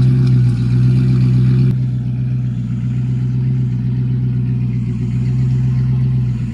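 A car engine running steadily at a constant speed, its tone shifting slightly a little under 2 seconds in.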